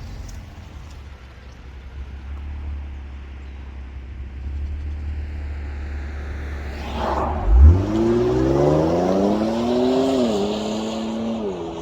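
Infiniti Q50S with a Rev 9 high-flow cat-back exhaust accelerating hard. A low steady rumble gives way about seven seconds in to a loud surge, and the exhaust note then climbs in pitch, dips once at a gear change and pulls on again.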